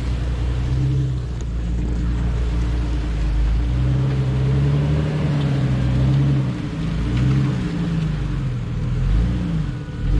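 Jeep engine revving under load, its pitch rising and falling several times as the driver works the throttle to climb a slick, muddy off-road line.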